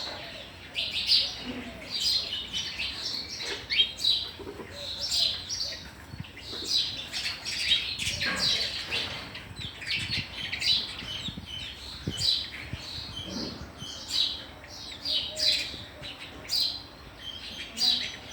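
Sparrows chirping: short chirps repeated steadily, a few each second.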